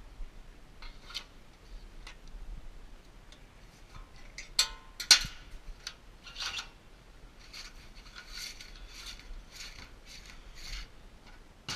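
Nylon starter rope rubbing and sliding through hands as a double knot is tied in it, with two sharp clicks a little before the middle and a run of short rasping rubs in the second half.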